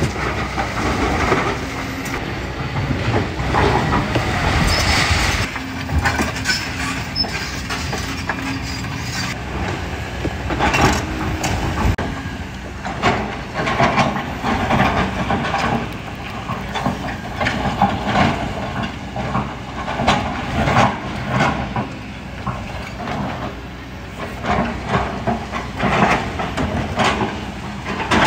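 Kobelco hydraulic excavator working: a diesel engine running under load, with the bucket scraping and knocking against rocks and gravel in the sand, giving an irregular string of clattering impacts over a steady rumble.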